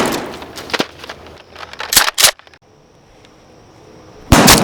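Sharp, loud shot-like bursts in a Nerf battle: one at the start, two in quick succession about two seconds in, and another near the end. The background cuts out abruptly right after the pair.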